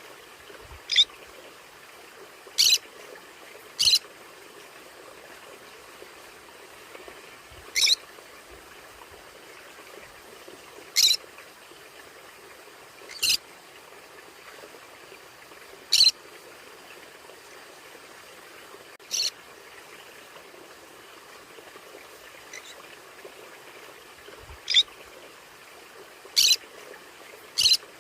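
Conure calling: about a dozen short, sharp, high-pitched calls at uneven intervals, over a steady background hiss.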